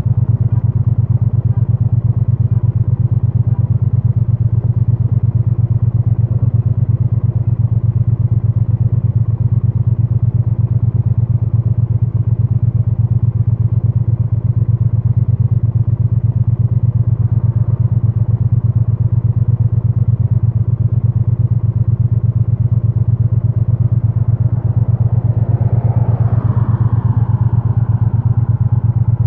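2022 Triumph Bonneville T100's 900 cc parallel-twin engine idling steadily through its stock exhaust, heard muffled from a microphone stuffed in a backpack. About 26 seconds in, a brief rising-then-falling sound joins it.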